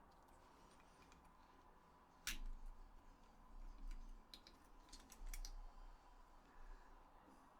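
Small plastic clicks and taps from handling a DualShock 4 controller's shell and internal parts. There is one sharp click about two seconds in, then a scatter of lighter clicks through the middle.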